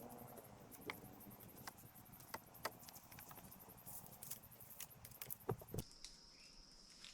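Scattered light clicks and knocks, a few a second, over a faint hiss; about six seconds in the background switches abruptly to a steady, high-pitched insect drone.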